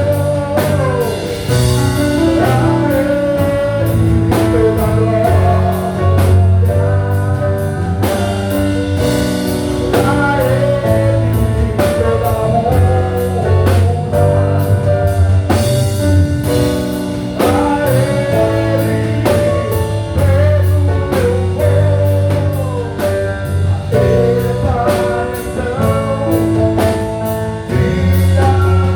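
Live band playing a song with a lead vocal, electric guitar, bass and a drum kit keeping a steady beat.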